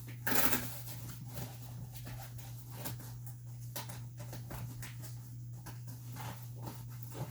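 Handling noises from assembling a fabric playpin: a short loud rasp near the start, then scattered light rustles and clicks, over a steady low hum.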